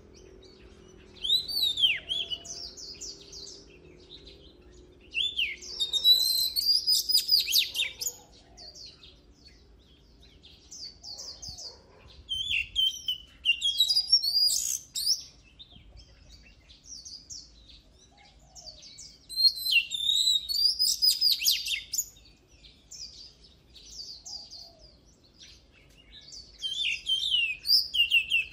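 Oriental magpie-robin singing: varied phrases of clear whistles, rising and falling glides and rapid trills, delivered in bursts of one to three seconds with short pauses between.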